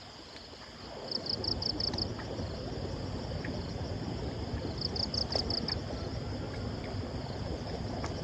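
Outdoor field ambience: a steady high insect drone, with two short trains of rapid chirps from an insect or frog, over a low rushing noise that starts about a second in.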